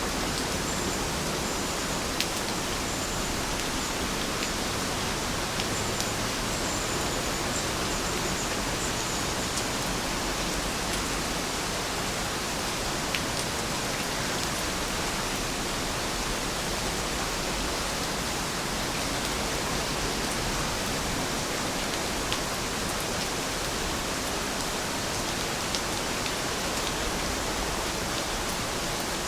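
Heavy rain falling steadily, an even hiss with a few sharp ticks of single drops scattered through it.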